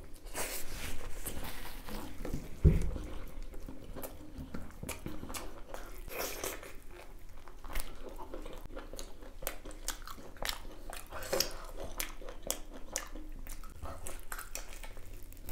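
Close-up chewing and biting of beef innards: wet mouth smacks and crunchy clicks. One dull thump about two and a half seconds in is the loudest sound.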